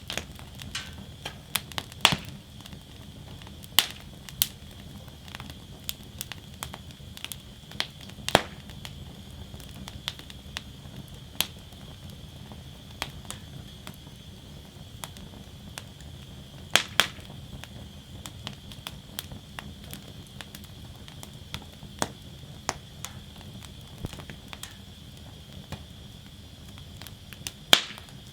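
Wood fire burning in a steel fire basket, crackling with irregular sharp snaps and pops over a steady low rush. The loudest snaps come about two seconds in, about midway, and near the end.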